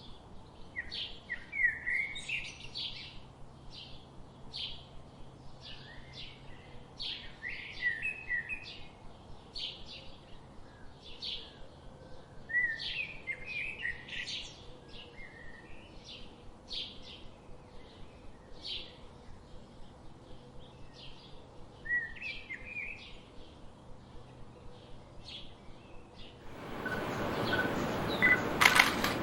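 Small birds chirping: a steady run of short, repeated chirps, with a faint background hum. About three seconds before the end the birdsong is cut off by a sudden, much louder rushing noise with clicks.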